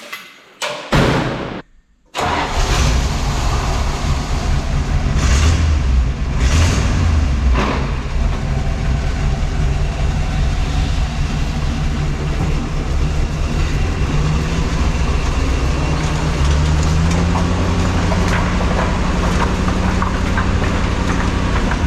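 Tucker Sno-Cat's engine running steadily as the tracked machine drives, with a few sharp knocks in the first few seconds of running. About two-thirds of the way through, the engine note rises and holds higher.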